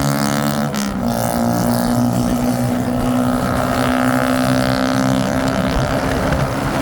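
Motorbike engine running steadily while riding, with a brief change in engine pitch about a second in.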